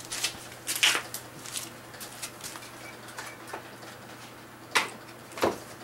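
Scattered sharp clinks and knocks from parts and tools being handled while parts are taken off a vehicle, about seven in all, the loudest two near the end.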